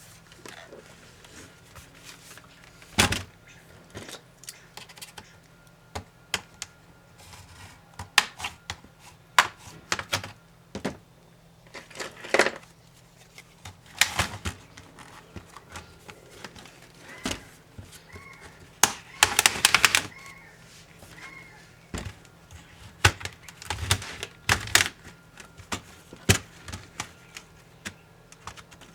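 Small hard clicks, taps and knocks of laptop parts being handled during disassembly: plastic and metal pieces unclipped, pried and set down at irregular intervals, with a quick run of rattling clicks about two-thirds of the way through.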